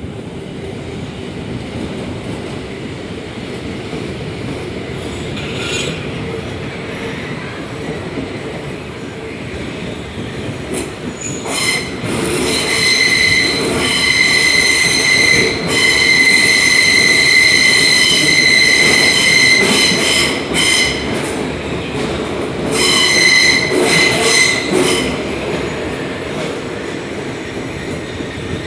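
A Hamburg S-Bahn class 472 electric multiple unit running, heard from inside a carriage as a steady rumble. About twelve seconds in, the wheels start squealing with a loud, high, steady whine and overtones for about nine seconds. The squeal drops out briefly and comes back for another couple of seconds.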